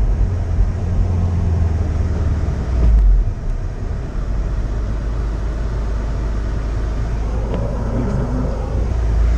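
Car driving on a snowy road, heard from inside the cabin: a steady low engine and road rumble that swells briefly about three seconds in, then settles.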